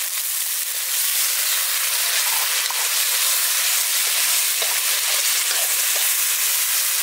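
Onions, tomato and chillies frying in hot oil in a black iron kadai over a wood fire, with a steady sizzle. It gets a little louder about a second in as a spice mixture is poured in, and is then stirred with a spatula.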